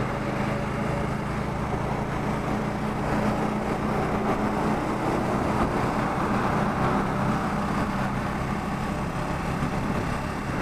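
Bajaj Pulsar N250's single-cylinder engine running steadily at highway cruise, under wind and road noise.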